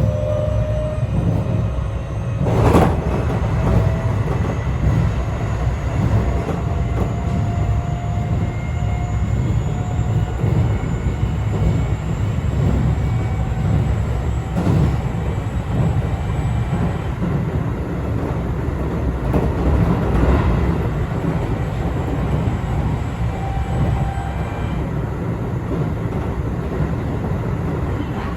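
Keio 8000 series electric train running between stations, heard from inside the car: a steady rumble of wheels on rail with a faint whine rising slowly in pitch, and a few sharp knocks, the loudest about three seconds in.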